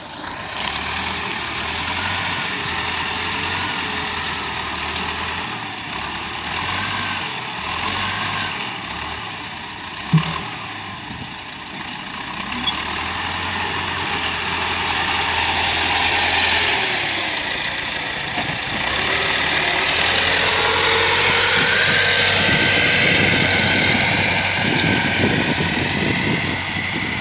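T-40 tractor's diesel engine running, its pitch rising and falling as it works, getting louder in the second half. There is one sharp knock about ten seconds in.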